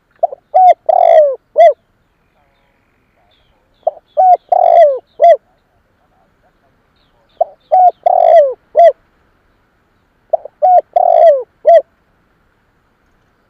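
Spotted dove cooing its song: four phrases about three and a half seconds apart. Each phrase is two or three short coos, a longer coo that falls in pitch, and a short closing coo.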